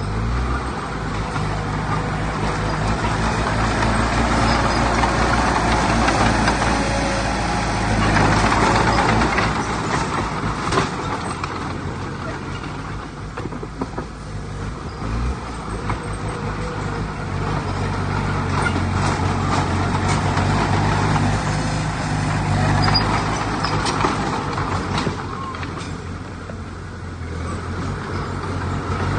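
Diesel engines of heavy earthmoving machinery running, growing louder and easing off a few times, with clatter and rumble over a low steady engine note.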